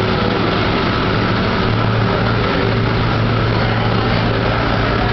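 Steady low hum of idling car engines under a constant rush of noise.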